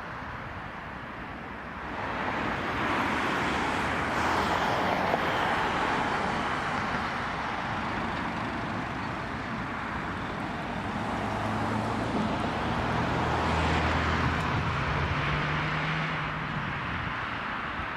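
Street traffic: a car passes with tyre noise swelling from about two seconds in, then a second vehicle passes with a low engine hum near the end.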